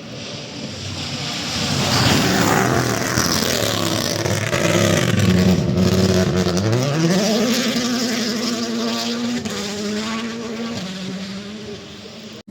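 A rally car passing at speed on a gravel stage. Its engine note swells as it approaches, drops briefly about halfway through, then climbs steeply as it accelerates hard, over a constant hiss of tyres and gravel, and fades near the end.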